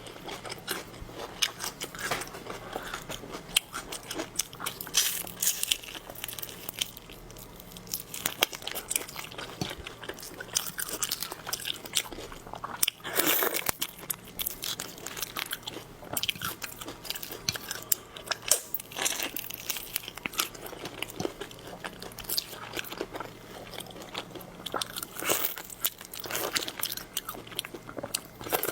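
Close-miked eating of shrimp and crab: repeated biting, crunching and chewing, with irregular sharp crackly bites.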